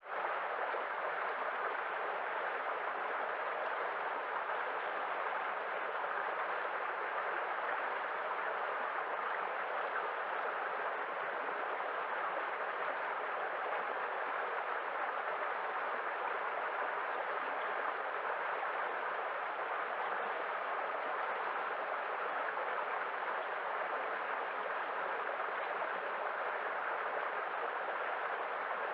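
Running water, a steady even rush with no change in level.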